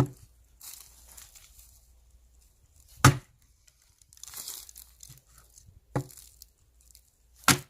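Firewood being split: four sharp wooden knocks, the second the loudest, with two stretches of splintering and tearing wood between them.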